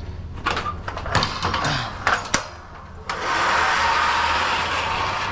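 Several knocks and rattles, then a loud steady hiss starts suddenly about three seconds in and keeps going.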